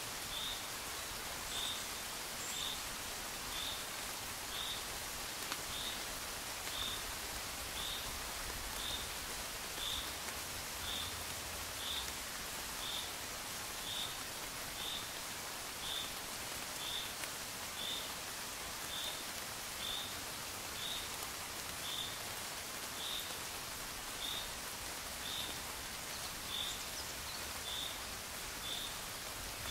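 Gentle rain falling steadily, with a short high chirp repeating about once a second from a small animal.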